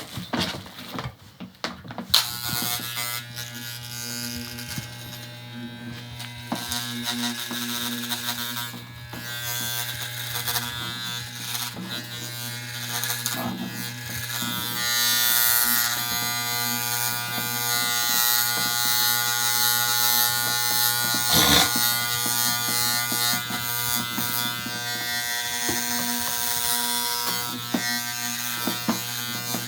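Electric hair clippers switched on about two seconds in, then running with a steady buzz that grows louder and noisier from about fifteen seconds in.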